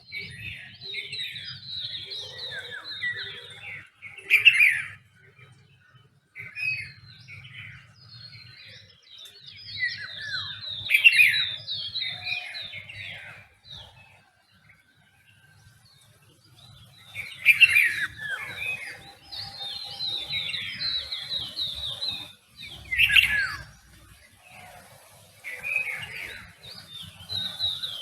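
Several songbirds chirping and singing in overlapping bouts of quick, high phrases, with a quieter lull about halfway through.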